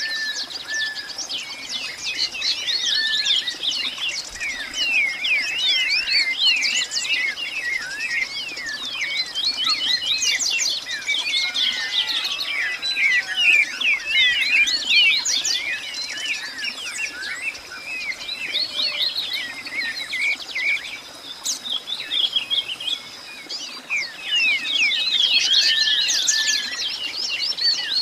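A dense chorus of many birds chirping, with short quick chirps overlapping one another, thinning out for a few seconds about three-quarters of the way through before building again. A faint steady high tone runs beneath the calls.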